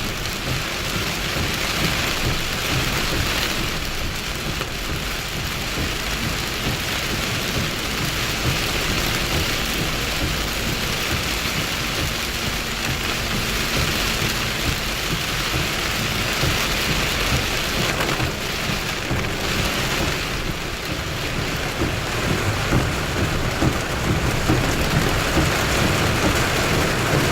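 Heavy rain falling steadily in a thunderstorm, with thunder rumbling low underneath; it grows slightly louder in the last few seconds.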